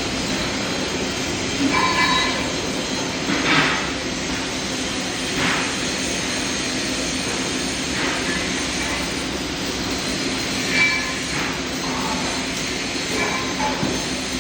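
Welding arc on stainless steel: a steady buzzing hiss with a constant hum, broken by several brief louder, ringing flares.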